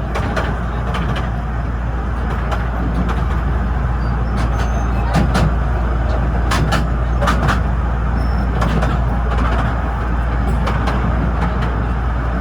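The Artouste narrow-gauge tourist train running: a steady low rumble with frequent irregular clicks and knocks from the wheels and carriages.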